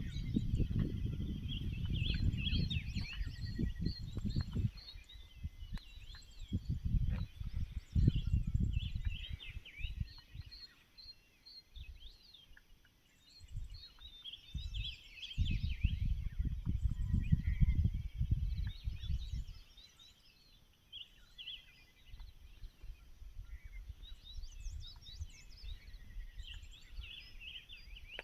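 A morning chorus of many small birds chirping and trilling, with calls overlapping throughout. Several stretches of low rumbling noise come and go over it and are louder than the birds.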